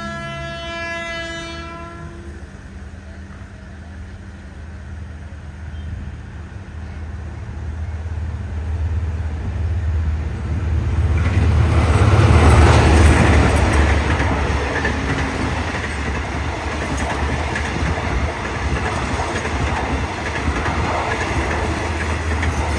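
A diesel locomotive's horn sounds as the train approaches and cuts off about a second and a half in. The locomotive's engine then grows louder as it runs through the station without stopping, loudest about halfway through. After it, the steady clatter of passenger carriages' wheels on the rails follows.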